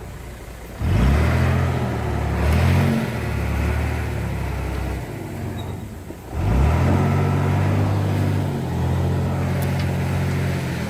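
Diesel engine of heavy earthmoving machinery revving hard twice: it surges about a second in, eases off, and surges again past halfway, then runs on steadily under load.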